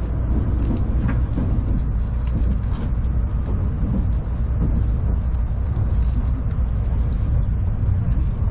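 Steady low rumble of a Tokaido Shinkansen train running at low speed, heard from inside the passenger car.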